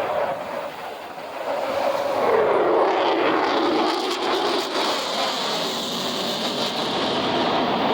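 Jet noise from an F-22 Raptor's twin Pratt & Whitney F119 afterburning turbofans as it flies past. The sound swells about two seconds in, with a pitch that falls as the jet passes, then settles into a steady roar with a strong hiss.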